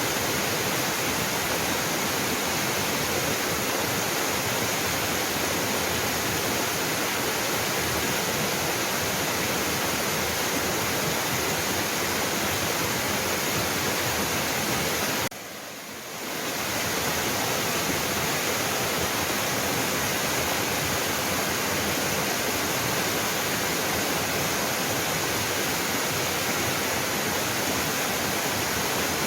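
Waterfall: water pouring and splashing with a steady, full rush. About halfway through it briefly drops in level, then swells back.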